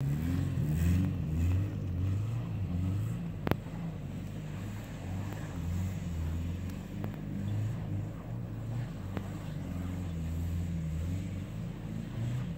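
Subaru Legacy's boxer engine revving up and down over and over as the car drifts through snow. A single sharp click sounds about three and a half seconds in.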